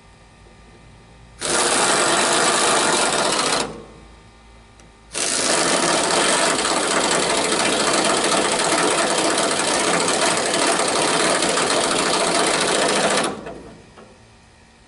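Mac impact wrench hammering a screwdriver bit round in two runs, about two seconds and then about eight seconds, each starting and stopping abruptly.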